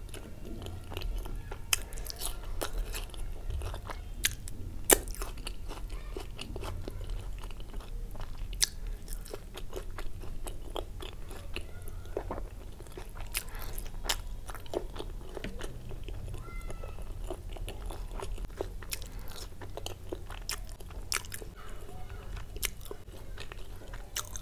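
Close-miked eating sounds: chewing soft, saucy food such as palak paneer eaten by hand, with many sharp, irregular wet mouth clicks and smacks. There are also squishing sounds from fingers scooping the curry.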